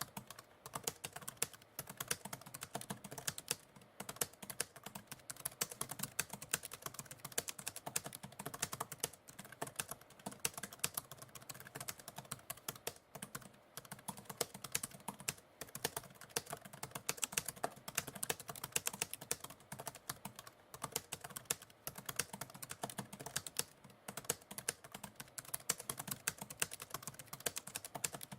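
Computer keyboard typing: fast, continuous key clicks with brief pauses between runs.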